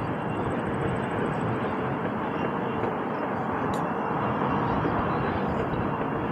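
Steady rush of wind and tyre noise from riding an Extreme Bull Commander Pro electric unicycle at speed, with a faint steady whine underneath.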